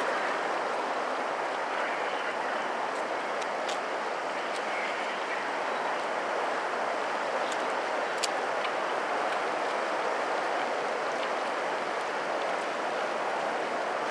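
Distant freight train of covered grain hopper cars rolling past as a steady rushing noise, with a few faint, sharp clicks.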